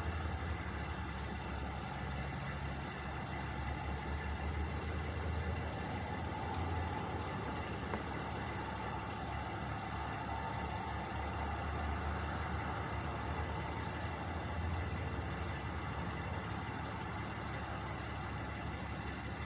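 Two trucks' engines idling steadily at a distance, a continuous low hum.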